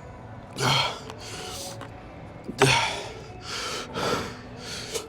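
A man breathing hard in heavy gasps, about six breaths, two of them voiced and louder: he is catching his breath after a set taken to failure.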